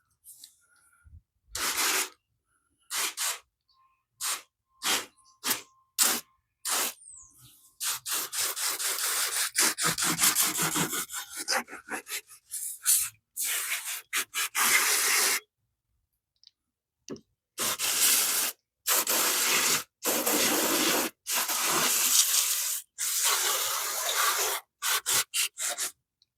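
Water spraying down an engine bay to rinse it: a string of short bursts, then two long continuous sprays of several seconds each, with sharp stops between them.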